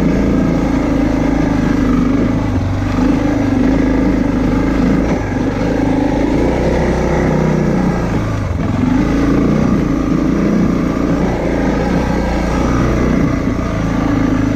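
Motorcycle engine running under way at a steady pace. The engine note dips briefly and rises again about eight and a half seconds in.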